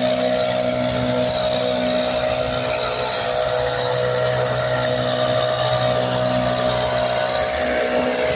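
Wood chipper's engine running steadily, a constant droning hum with a steady higher whine and no sudden changes.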